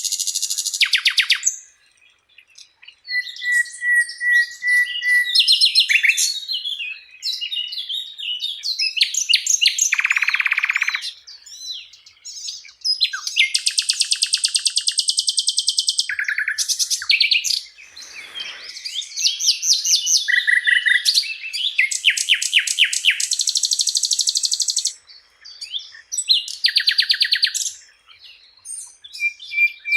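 A sikatan londo (flycatcher) singing a long, varied song of rapid high trills, chattering phrases and a few short level whistles, broken by brief pauses.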